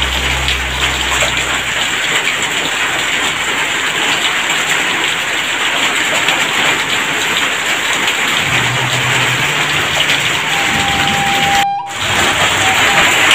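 Heavy rain pouring steadily, an even hiss of downpour, with a brief dropout in the sound near the end.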